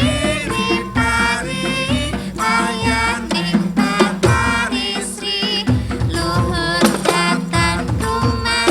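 Javanese gamelan ensemble playing, with hand-drum strokes and a singing voice whose pitch bends and wavers above the metallophones.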